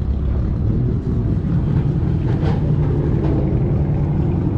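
Car engine running at idle: a steady low rumble, with an even engine note settling in about three seconds in.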